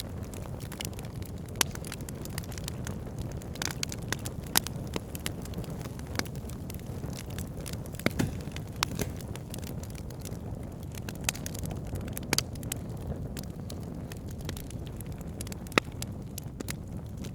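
Wood fire crackling: irregular sharp pops and snaps from the burning wood over a steady low rush of flame.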